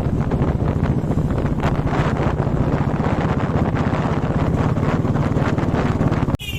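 Wind buffeting the microphone of a moving motorcycle, over a steady low rumble of engine and road. The sound drops out for an instant near the end.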